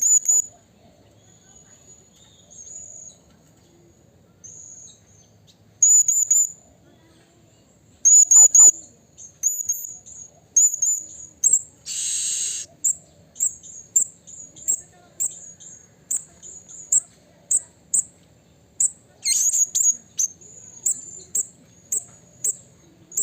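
Blue-crowned hanging parrot (serindit) calling: thin, very high-pitched notes, scattered at first, then from about eight seconds in a quick run of short sharp chirps, about two a second. One longer, harsh rasping call comes near the middle.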